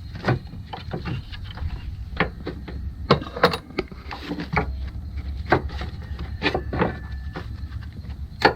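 Metal dog-bone motor mount being worked into its bracket by hand: scattered clicks and knocks of metal on metal, the loudest near the end as it seats.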